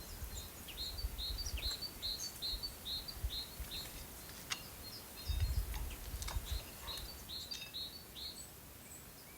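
A small songbird singing two runs of short, evenly repeated high chirps, about three a second, over outdoor background noise with a low rumble.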